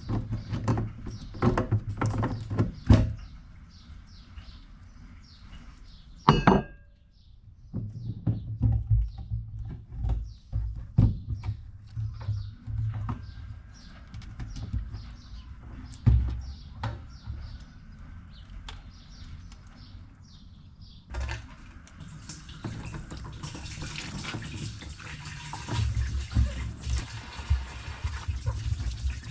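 A jet ski fuel tank being knocked and handled with repeated sharp clatters while it is washed out, then water running steadily over it from about 21 seconds in as it is rinsed.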